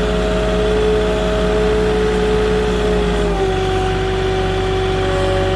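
Moffett truck-mounted forklift's engine running steadily with a whine. About three and a half seconds in, the note drops slightly lower and the rumble changes, as the last pallet is set down.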